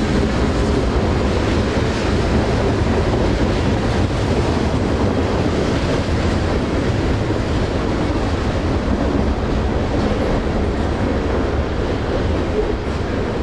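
Train passing on the line, a steady loud rolling rumble with no distinct rhythm.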